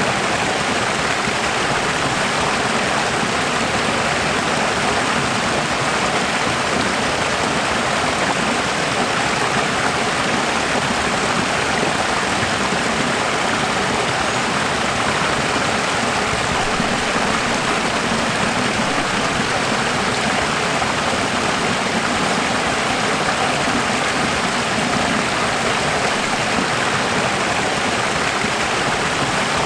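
Running water: a steady, even rush that doesn't change.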